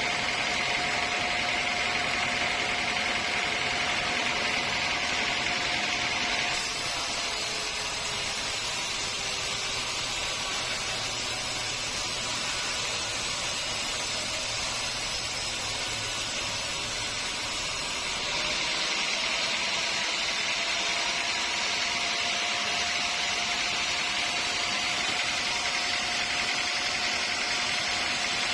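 Sawmill machinery running steadily, a saw cutting through a teak log, with a constant whine over machine noise. The sound changes abruptly about a quarter of the way in and again past halfway.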